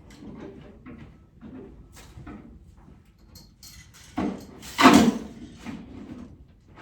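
Cow manure being raked and scooped up: a string of short scraping strokes, with one much louder, longer scrape a little over four seconds in.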